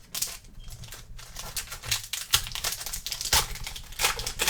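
A plastic trading-card pack wrapper being torn open and crinkled by hand, an uneven run of sharp crackles.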